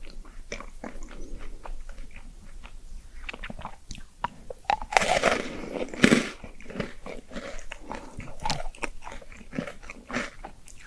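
Close-miked eating sounds: biting and chewing with crunching and many small wet clicks, and two louder noisy bursts about five and six seconds in.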